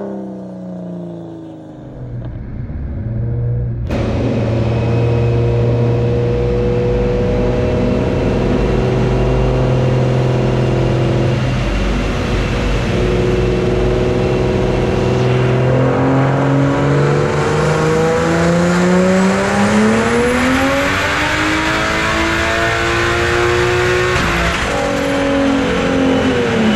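BMW 135i's N54 inline-six, converted to a single turbo, running on a chassis dyno on low boost. It comes in loud a few seconds in and holds a steady speed, then about halfway through revs up steadily in a pull, and drops back near the end.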